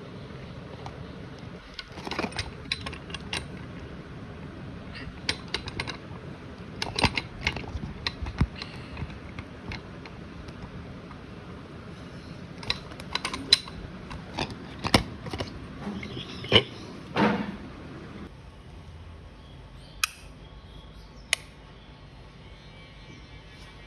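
Irregular metallic clicks, clinks and knocks of small parts and tools being handled, some sharp and loud, over a steady background hum that drops away about 18 seconds in.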